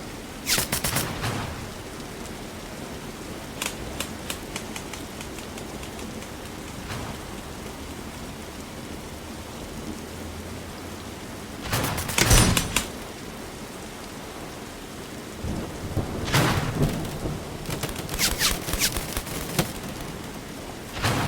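Airsoft guns firing in short rapid bursts of shots, several bursts with pauses between them. The loudest burst comes about halfway through, and a run of bursts follows near the end.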